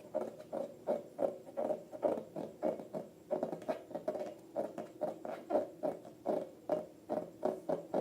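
Slime being squeezed and worked by hand: a quick run of short, wet, sticky squelches, about two to three a second.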